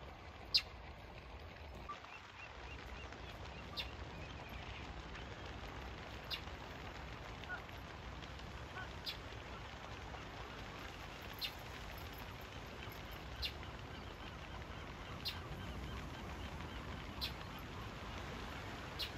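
Birds calling, goose- or duck-like, over a steady background hiss, with a sharp click about every two seconds.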